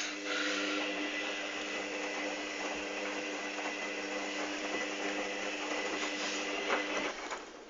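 Hoover Dynamic DYN 8144 D washing machine's motor turning the drum during a pre-wash cycle, a steady whine over a hiss. It stops about seven seconds in, at the end of one tumble.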